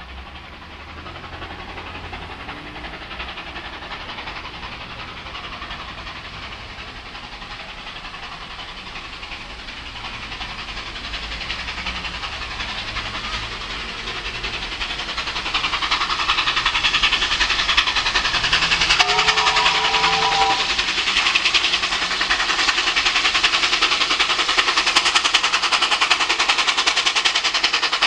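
Two NSW 38 class steam locomotives, 3801 and 3830, working a train together, their running noise and exhaust growing steadily louder as they approach. One short chord whistle sounds about two-thirds of the way through, lasting roughly a second and a half.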